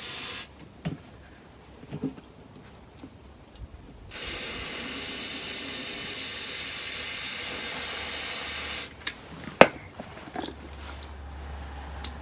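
A steady hiss of compressed gas lasting about four and a half seconds, starting about four seconds in, with a shorter hiss at the very start and a few sharp knocks around it.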